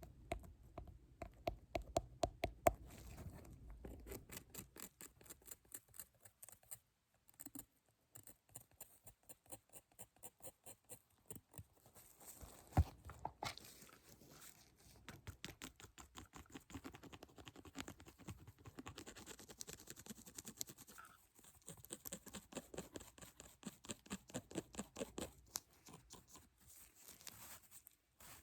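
Close-miked ASMR tapping and scratching: quick runs of light taps and clicks, several a second, with one louder knock about halfway through.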